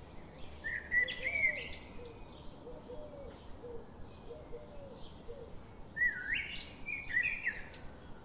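Birds chirping: two bursts of quick sliding chirps, about a second in and again near the end, with softer lower calls repeating in between.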